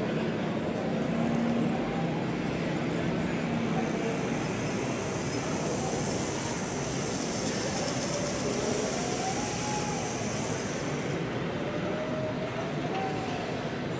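Steady din of a busy model-show hall, with faint whines that rise and fall, as from RC model motors running.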